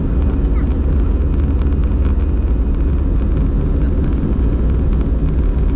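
Airbus A320-214 cabin noise heard from a passenger seat: a loud, steady low rumble of the CFM56 engines and airframe.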